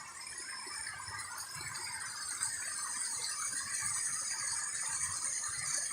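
Waterfall water rushing and splashing over rocks, growing gradually louder, with a steady high-pitched shrill layer above it.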